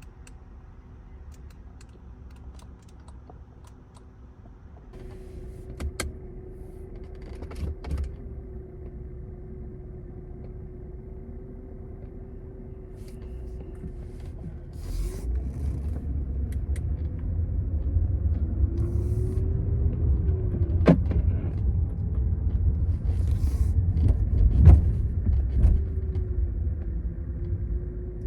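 Audi A8 L's 4.0-litre twin-turbo V8 car running, with a low engine and road rumble that builds from about halfway through as it gathers speed. A steady hum wavers in pitch, and a few sharp knocks come through.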